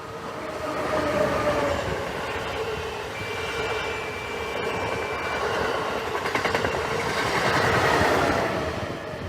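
A train passing close by, building up within about a second, running loudly for several seconds and fading away near the end, with a brief steady high-pitched tone in the middle.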